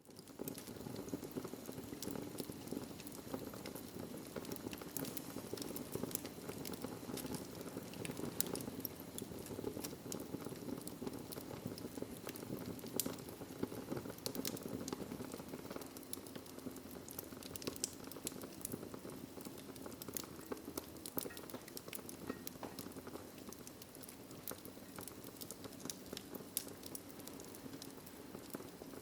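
Wood fire crackling in a fireplace: a steady low rush of flame with many small sharp snaps throughout, a couple of louder pops about 8 and 13 seconds in.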